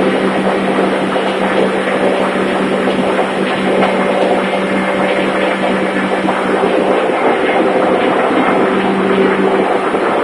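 Steady, loud din of a ship's engine-room machinery running, a constant hum under dense mechanical noise.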